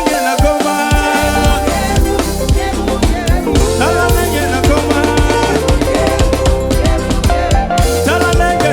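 Upbeat African-style worship dance music, with a drum kit keeping a steady beat under bass and held pitched instrument notes.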